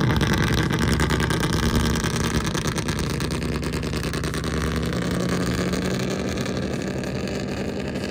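A car engine running steadily at idle, its pitch edging up slightly about halfway through.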